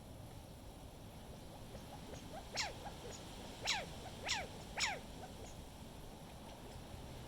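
Four short, high squeaky calls from a backyard animal, each sliding sharply down in pitch, over a steady low rumble of wind noise.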